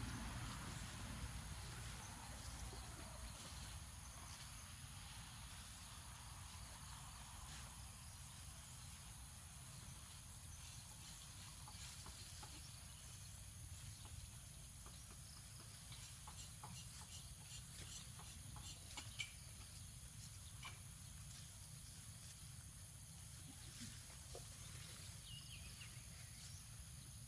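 Quiet rural outdoor ambience: a steady high insect drone over a low rumble, with scattered small clicks and ticks. A passing engine fades out in the first couple of seconds.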